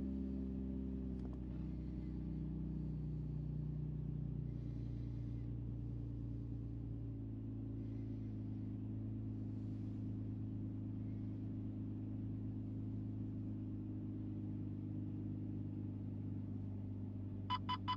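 Nissan Fairlady Z's V6 engine idling steadily through an aftermarket muffler, the revs dropping back to idle in the first second or so.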